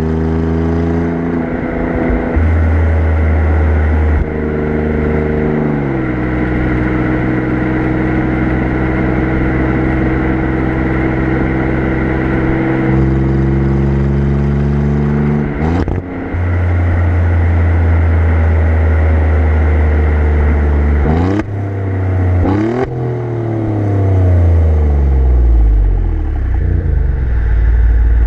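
Alfa Romeo Giulia Quadrifoglio's twin-turbo V6 exhaust, heard close at the rear bumper, running at easy cruising revs over road and wind noise. The pitch falls about five seconds in, breaks with quick gear changes around sixteen and twenty-two seconds, and slides down near the end as the revs drop.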